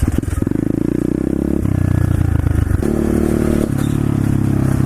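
125cc SSR pit bike's single-cylinder four-stroke engine running while the bike is ridden, its note shifting in steps a few times as the throttle or gear changes.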